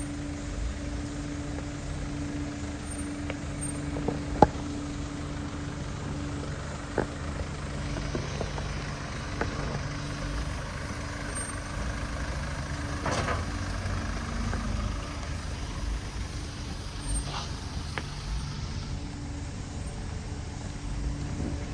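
Off-road vehicle's engine running steadily at low speed while crawling over a rough trail, with occasional sharp knocks, the loudest about four seconds in. From about 8 to 18 seconds a rushing noise joins in over the engine.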